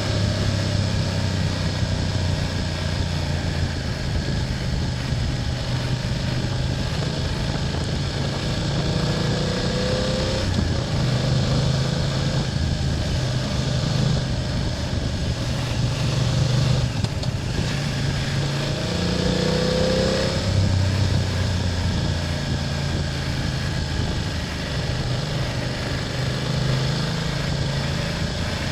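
BMW F800GS parallel-twin engine running under way on a ride, heard on board, its note shifting with the throttle. The revs rise twice, about a third and two-thirds of the way through.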